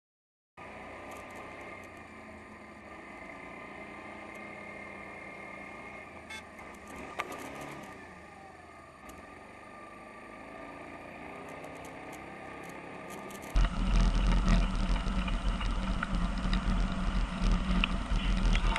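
Vehicle engine and road noise: a quieter stretch with a steady hum and a single sharp click partway through, then an abrupt change, about two-thirds of the way in, to a much louder, deep rumbling noise.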